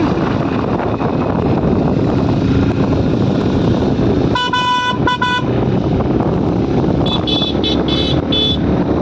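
Steady wind and road noise from a motorcycle ride, with a vehicle horn sounding twice in quick succession about halfway. Near the end a higher-pitched horn toots four or five short times.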